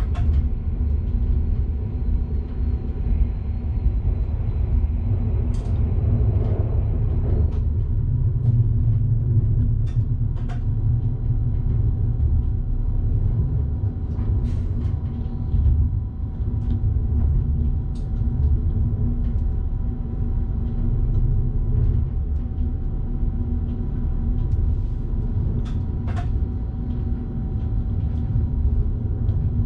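Electric train running, heard from the driver's cab: a steady low rumble with a faint steady whine. Sharp clicks come now and then.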